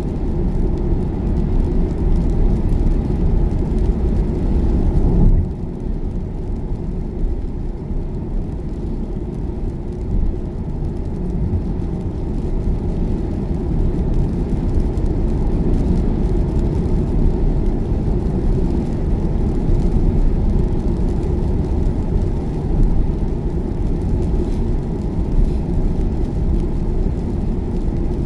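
Steady low road and tyre rumble inside an electric car's cabin at motorway speed, with a short dip in level about five seconds in.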